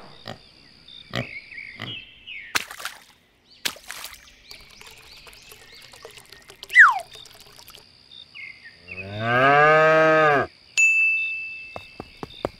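A cow moos once, for about a second and a half, near the end. A bell rings right after the moo. Earlier there are scattered clicks and knocks and one short, loud falling whistle.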